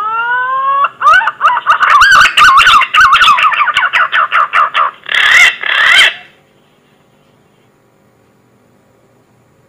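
Green pigeon (punai) song used as a hunting lure call. A rising whistled note leads into a fast run of wavering, warbling whistles, ending in two louder notes about five and six seconds in.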